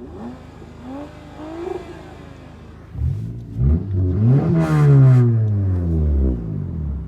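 A car engine revving: a few short blips, then a loud rev that climbs about three seconds in and winds back down over the last couple of seconds.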